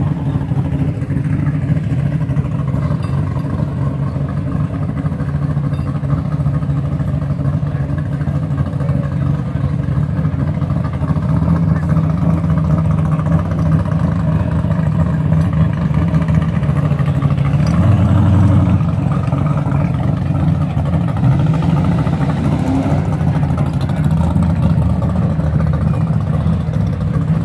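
A car engine idling with a steady low rumble, swelling briefly about 18 seconds in.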